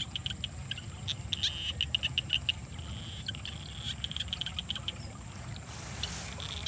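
Frogs calling in rapid trains of clicking pulses, over a steady low rumble, with a brief hiss about six seconds in.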